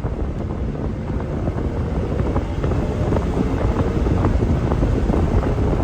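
Turbocharged Porsche Cayman S flat-six car driving, its engine a low steady rumble under heavy wind and road noise on the microphone.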